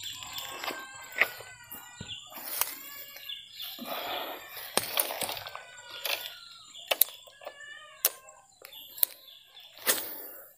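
Birds calling in short repeated notes, with several sharp clicks scattered through.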